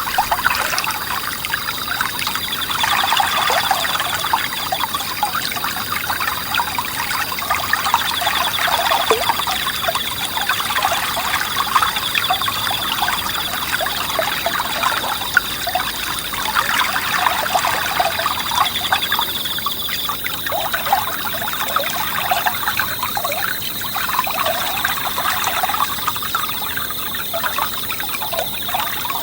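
Small forest stream babbling and trickling over stones, swelling and easing every few seconds, with a steady chorus of high-pitched autumn insects trilling over it.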